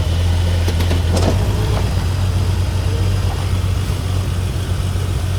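Suzuki SJ's engine running at low speed with a steady low drone while it crawls off-road, with a few short clicks or knocks about a second in.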